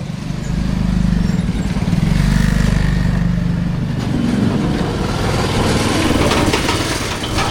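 A vehicle engine running close by, getting louder about a second in and staying loud.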